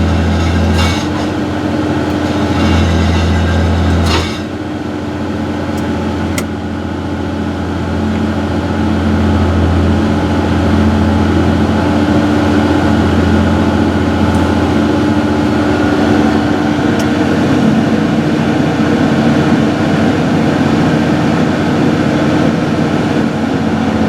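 John Deere 6068 inline six-cylinder diesel of a harvester running steadily, warming up after a thermostat change while its coolant temperature is watched for overheating. A couple of clicks come in the first seconds, and a knock about four seconds in is followed by a slight shift in the engine's low hum.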